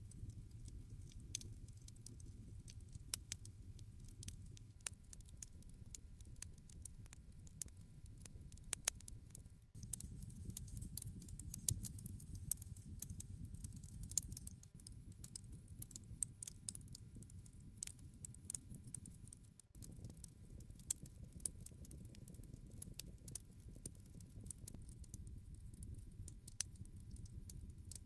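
Wood campfire crackling: a dense, irregular run of sharp snaps and pops over a low, steady rumble of flames. The low sound dips briefly about ten and twenty seconds in.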